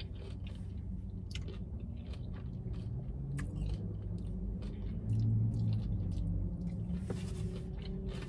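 Close-up chewing of a mouthful of Chipotle burrito bowl (rice, beans, chicken, lettuce): soft wet mouth clicks and smacks scattered through, over a steady low hum, with a brief louder low hum about five seconds in.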